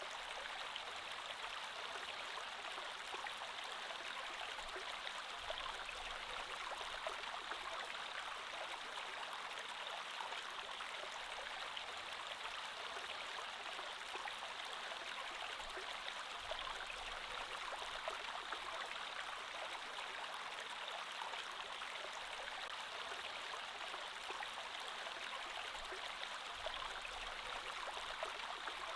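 Creek water flowing steadily, an even, unbroken rush.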